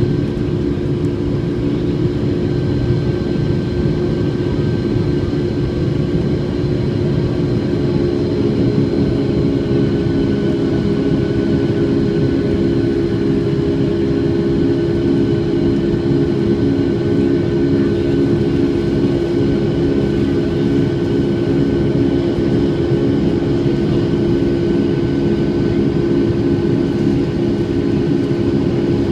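Boeing 757-200's Rolls-Royce RB211-535E4B turbofans heard inside the passenger cabin, a steady, loud deep hum with several held tones and no change in pitch, the engines at high thrust.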